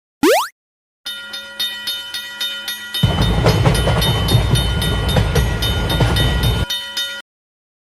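A quick rising sweep, then a train sound effect: a train running past with about four wheel clicks a second and steady whistle-like tones over it. A heavy rumble sets in about three seconds in and drops away shortly before the sound cuts off abruptly.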